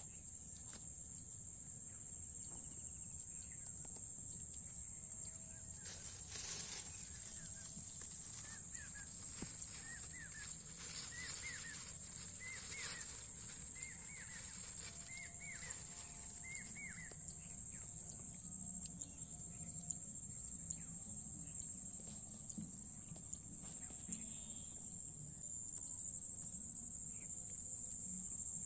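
Steady high-pitched drone of insects, with a bird repeating a short chirp about once a second for several seconds in the middle, over a low rumble.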